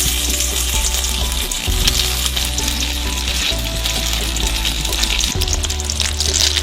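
Food sizzling as it fries in hot oil, the sizzle starting suddenly and going on steadily, with background music underneath.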